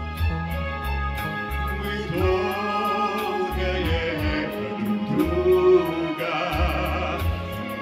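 Slow, gentle Russian ballad sung in concert. From about two seconds in, a voice sings long held notes with vibrato over steady bass notes and a light, even ticking beat.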